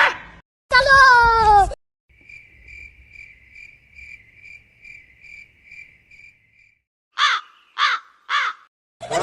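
A brief sound falling in pitch, then a cricket chirping at an even pace for about four and a half seconds, then a crow cawing three times near the end. These are separate sound effects played one after another.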